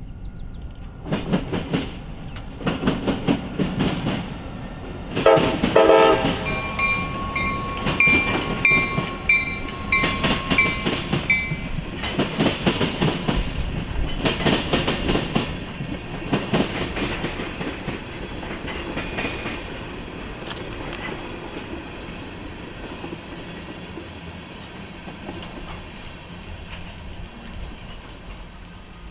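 Freight train wheels clanking over a railroad diamond crossing, in quick clusters as each truck passes over the crossing frogs. The clanking dies away after about eighteen seconds into a fading rumble of the passing train.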